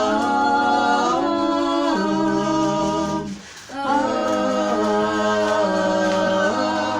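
Voices singing a slow melody a cappella in long held notes with no clear words, breaking off briefly about three and a half seconds in.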